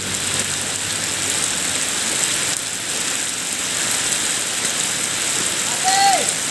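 Steady rain falling, an even hiss throughout. A short voice call rises and falls about six seconds in.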